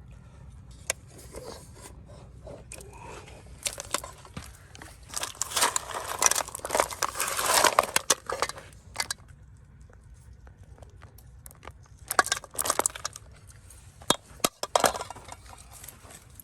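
Irregular bouts of scraping and crunching, like stones and dirt being dug through and moved by hand. The densest bout comes a few seconds in, with shorter ones later.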